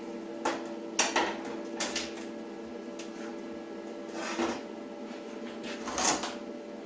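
Metalwork on steel angle iron and flat bar: several sharp metallic clanks and knocks in the first two seconds, then two short rasping bursts about four and six seconds in, over a steady hum.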